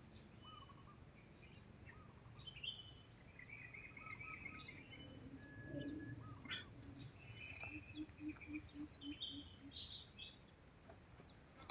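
Faint chirps of small birds over a steady high insect whine. About two-thirds of the way in comes a run of about eight short, low, evenly spaced notes, roughly four a second.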